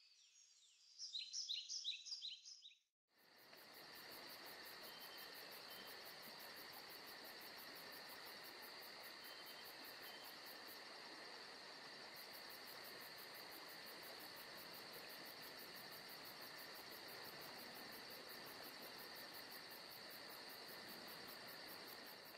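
Rapid, high bird chirps for the first few seconds. After a sudden break they give way to a faint, steady insect chorus: a continuous high buzz with fast, even pulsing over a soft hiss.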